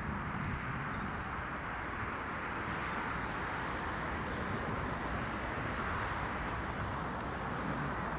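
Steady outdoor background roar with a low rumble underneath, even throughout.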